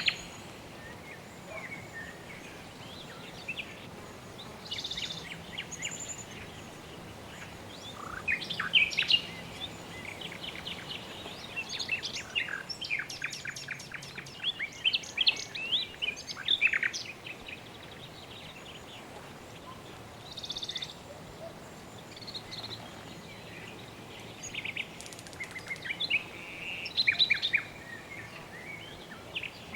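Birds chirping and trilling in several bouts of short, rapid calls, over a faint steady background hiss.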